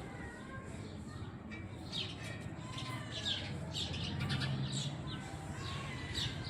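Small birds chirping: many short, high, falling chirps in quick succession.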